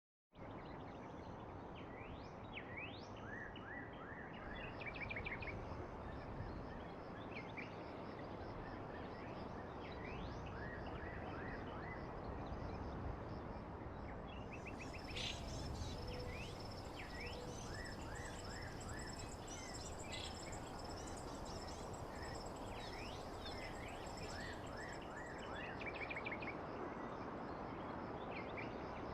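Nature ambience recording of songbirds chirping and calling over a steady hiss. It starts abruptly out of silence.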